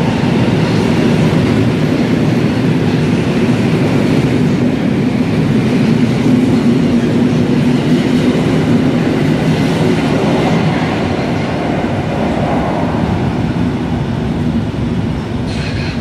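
Koleje Mazowieckie electric multiple unit pulling out along an underground platform: a steady rumble of wheels and motors that gets quieter over the last few seconds as the train clears the station.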